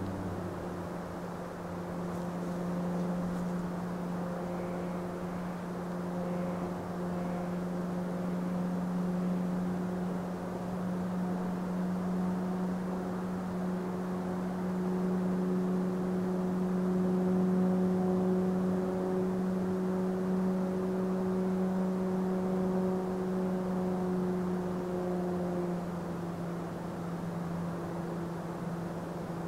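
Rhaetian Railway Capricorn electric multiple units running along the line: a steady electric hum with several held tones over a rushing rolling noise. Some of the higher tones fade out near the end.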